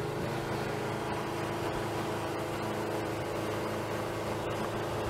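Car engine running at a steady speed with road noise, heard from inside the car's cabin while rolling alongside another car.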